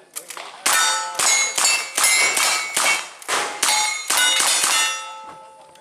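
A rapid string of about ten shots striking steel targets, each hit clanging and ringing, two to three a second, that stops about five seconds in.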